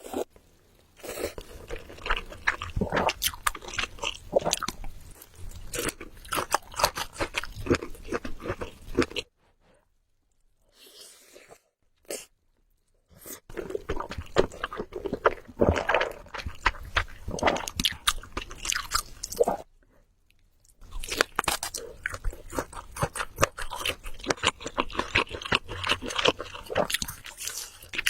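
Close-miked eating sounds of a person chewing Samyang Buldak Carbonara noodles, with rapid wet, crackly mouth clicks. The chewing stops for a few seconds about a third of the way in and briefly again about two-thirds in.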